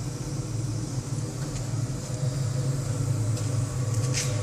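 Homemade waste-oil furnace running, its siphon-nozzle burner and air blower making a steady low rumble. A brief hiss comes near the end.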